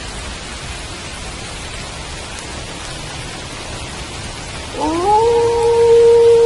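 Steady rain, and about three-quarters of the way in a wolf howl starts, rising quickly and then holding one long, steady note, louder than the rain.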